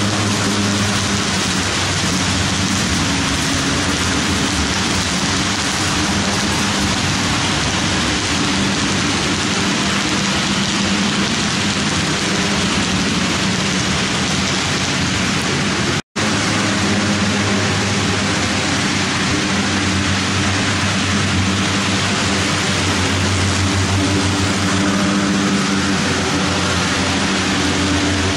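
HO-scale model freight train, led by an ALCO Century 630 and two SD45 diesel locomotives, running steadily with a low engine-like hum over a constant rolling hiss. The sound cuts out for a split second about halfway through.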